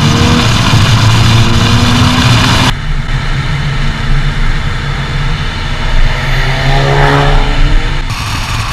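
Ford Focus RS's turbocharged 2.3-litre four-cylinder engine accelerating hard, in several edited cuts. The note climbs steadily at first, and after a cut it rises sharply again as the car comes on hard about seven seconds in.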